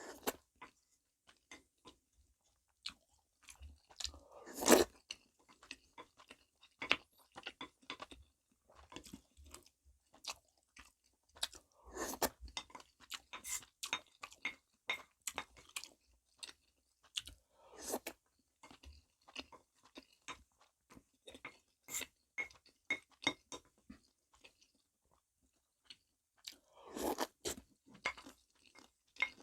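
A person chewing and crunching soy sauce–marinated stone crab, the shells cracking between the teeth in irregular quick crunches. A few louder bites come through, the loudest about five seconds in.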